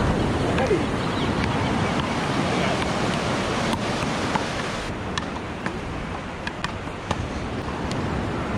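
Ocean surf washing onto a sandy beach, a steady rush of wave noise with some wind on the microphone and a few faint ticks scattered through it.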